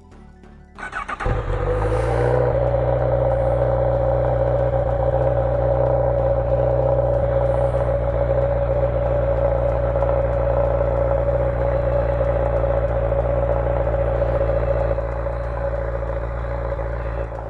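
Honda CB1000R's inline-four engine starting about a second in: a brief starter crank, then it catches and idles steadily, a little quieter in the last couple of seconds.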